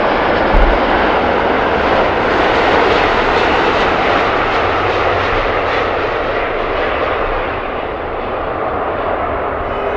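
Jet airliner's engines heard at close range, a loud steady rush of engine noise that slowly eases near the end, with a short low thump about half a second in.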